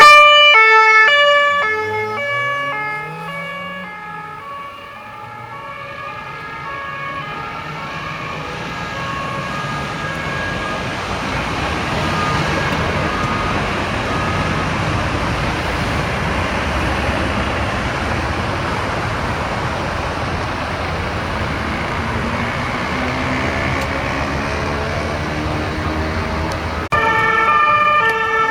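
French two-tone police siren alternating high and low on an unmarked police car, loud at first, then dropping in pitch and fading as the car passes and pulls away, leaving steady traffic noise with the siren faint in the distance. Near the end another two-tone siren cuts in suddenly at full loudness.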